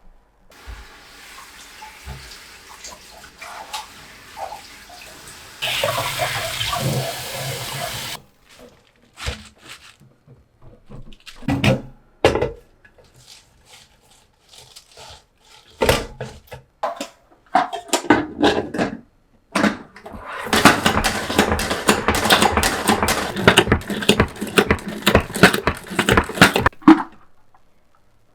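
Water running from a kitchen tap for a couple of seconds, then scattered knocks and clinks of kitchen utensils, and a long stretch of rapid, dense clattering near the end.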